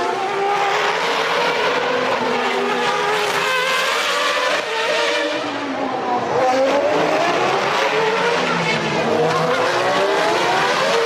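1993 Formula One racing engines at high revs, several cars' notes overlapping; the pitch drops about halfway through as they slow, then climbs again as they accelerate away.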